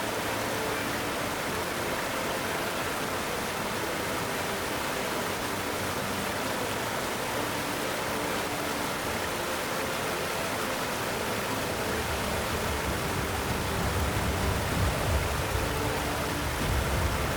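Steady hiss of rushing water, with a deeper low rumble coming in about twelve seconds in.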